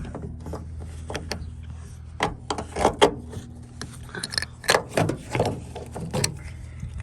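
Clicks, knocks and brief scrapes of metal hardware being handled as a seatbelt anchor bolt is put in place and started by hand, over a steady low hum.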